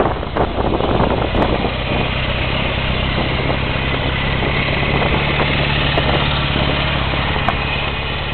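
Volkswagen Beetle's air-cooled flat-four engine idling steadily, with no revving, and a little crackling handling noise in the first second or so.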